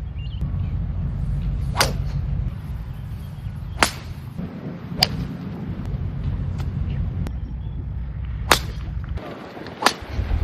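Golf balls struck by clubs: five sharp cracks at uneven gaps of one to three seconds, over a steady low rumble.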